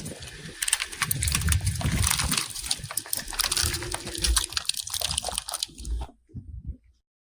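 Car tyre crushing objects, with dense crackling and crunching, low thuds and a wet, liquid sound. The sound cuts off suddenly about six seconds in.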